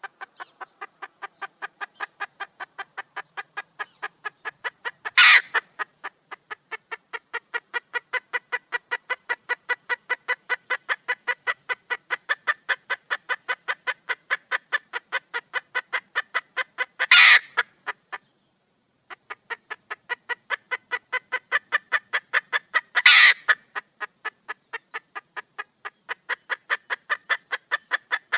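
Red junglefowl hen calling for a cock: a long run of quick, evenly spaced clucks, about four a second, broken three times by a much louder, harsher squawk, with a brief pause about two-thirds of the way through.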